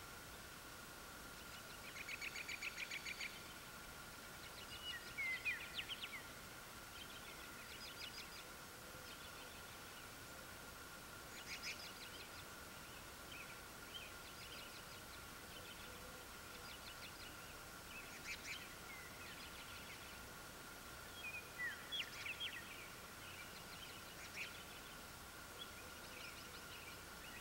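Several wild birds singing and calling: bursts of rapid trilling and short chirps, some sweeping down in pitch, come and go throughout, over a faint steady high hum.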